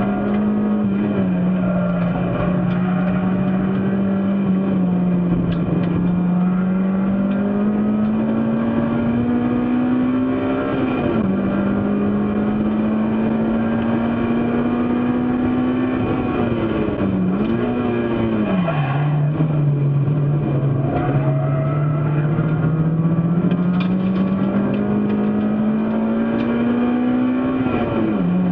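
Race car engine running hard under load, its pitch climbing slowly through each gear and dropping sharply at gear changes: about 11 seconds in, around 16 to 19 seconds with a quick dip and rise between, and again near the end.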